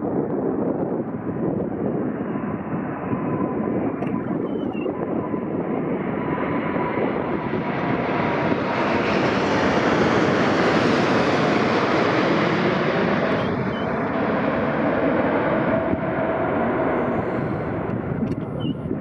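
Emirates Airbus A380 landing, its four jet engines loud and steady, swelling to a peak about halfway through and then easing off. A thin engine whine sits lower in pitch in the second half as the aircraft passes.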